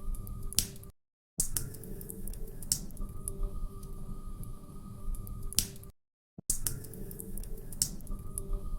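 Log fire crackling in a fireplace: scattered sharp pops and snaps over a low rumble, with a faint steady hum. The sound cuts out to silence twice for under half a second, about a second in and again about six seconds in.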